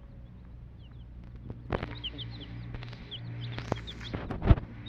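Birds chirping in quick, short, high peeps over and over, with several clattering knocks and a sharp thump near the end.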